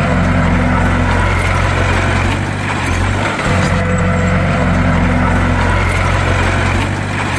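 Bulldozer diesel engine running steadily with a deep drone. The same pattern repeats about every four seconds.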